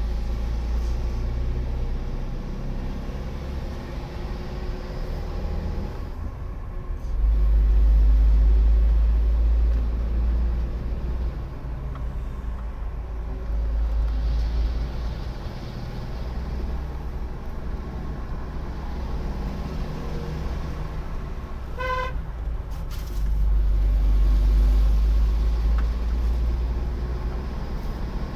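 A car driving, with a steady low rumble of engine and road noise that swells twice. About three-quarters of the way through there is one short car-horn toot.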